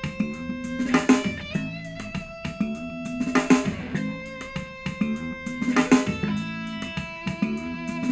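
Proton Tempo wireless speaker playing back guitar-led music with drums, held guitar notes under a strong drum hit about every two and a half seconds.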